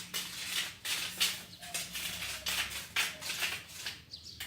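Irregular scraping strokes, a few a second, of a small tool digging into hard, stony soil.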